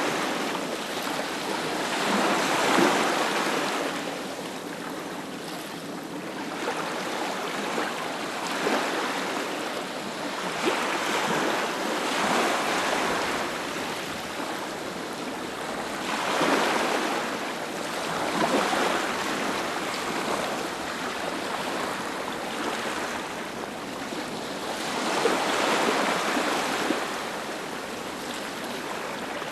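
Ocean surf breaking on a beach: a continuous wash of waves that swells louder as each wave breaks, every few seconds, and eases back between them.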